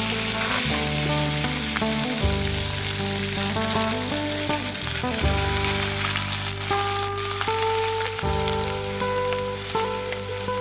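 Food frying in hot oil in a pan, a steady sizzle, with background music of held notes playing over it.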